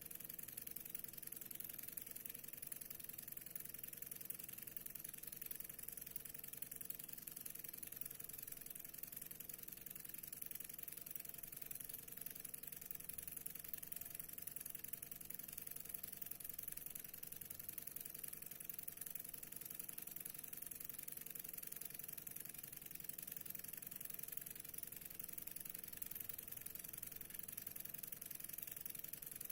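Stirling engine running smoothly at a steady speed: a faint, even mechanical hum that never changes, over a constant high hiss.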